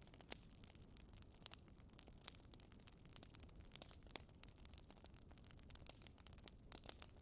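Wood fire crackling in a fireplace: a dense patter of small quiet clicks with a few sharper pops scattered through.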